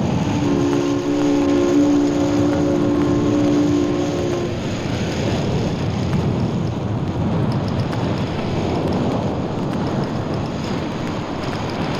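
A ship's foghorn sounds a deep, steady chord of several notes and stops about four and a half seconds in, over a constant rushing wash of sea and surf, the liner groping through fog close to a rocky shore.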